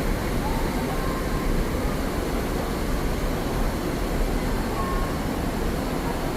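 Steady low rushing background noise of flowing stream water blended with city traffic rumble, with a few faint short tones near the middle of the range.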